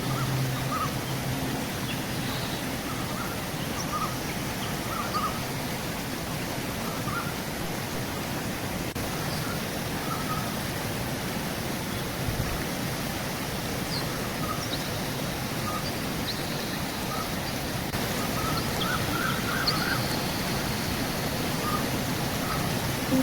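Steady rushing of river water, with scattered short bird chirps over it and a small cluster of calls near the end.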